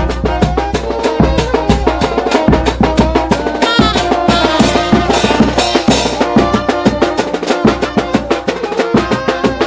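Tanjidor band music: wind instruments play a melody over a steady, quick drum beat, several strokes a second.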